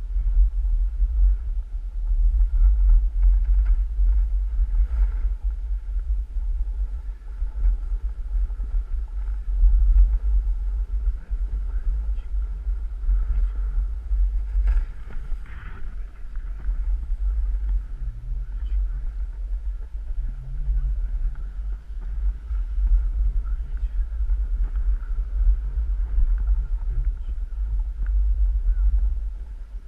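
Wind buffeting a camera microphone during a fast downhill ride on a snow slope, a loud, uneven low rumble that never lets up.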